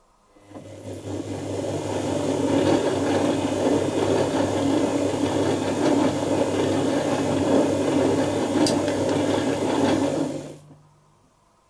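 Dyson Contrarotator CR01 washing machine running mid-cycle for about ten seconds: a rough rushing noise over a steady low hum. It builds over the first two seconds and stops near the end, with the hum fading a moment after.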